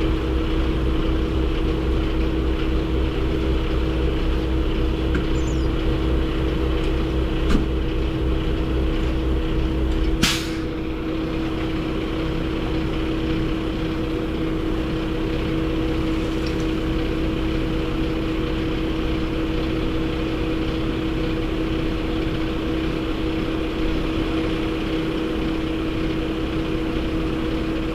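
Semi truck running with a steady engine drone and a constant hum. About ten seconds in there is a short sharp burst, and after it the deep rumble drops away.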